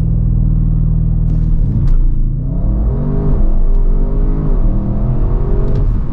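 Audi RS6 Avant's twin-turbo V8 on a launch-control start. The engine is held at steady high revs, then released about two seconds in, and the car accelerates flat out with rising revs broken by quick upshifts.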